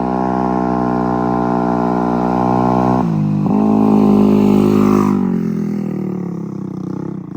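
Moped engine revving hard: the revs hold high, drop sharply about three seconds in, climb again, then fall away over the last couple of seconds.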